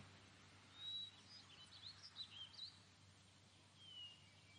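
Faint birdsong over a quiet hiss: a short thin whistle about a second in, a scatter of quick chirps after it, and a falling whistle near the end.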